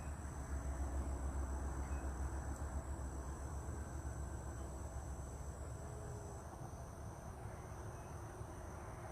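Steady high-pitched insect trilling, two thin unbroken tones, one of which stops about six and a half seconds in, over a constant low rumble.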